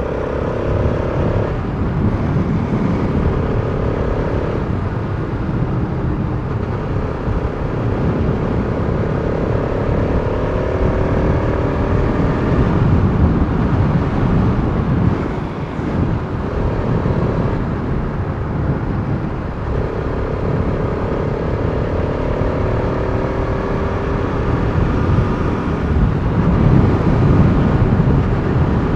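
Bajaj Pulsar RS200's single-cylinder engine running under way, its pitch climbing slowly over long stretches and dropping back several times, over a heavy low rumble of wind and road noise.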